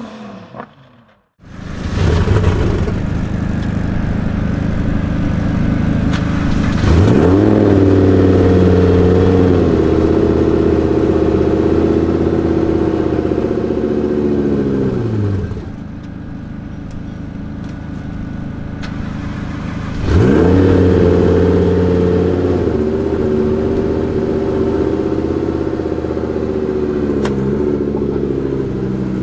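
Twin-turbo Audi R8 V10 engine starting up about a second and a half in and idling. It is then revved up and held at raised revs for several seconds, twice, dropping back to idle each time.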